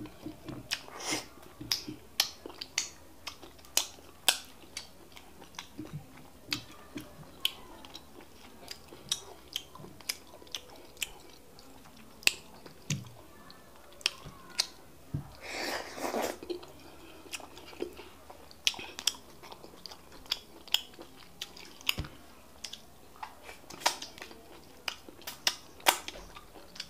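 Close-miked mouth sounds of two people eating fufu with bitter leaf soup: open-mouthed chewing with a steady run of sharp, wet lip smacks, one or two a second. A longer, noisier mouth sound comes a little past halfway.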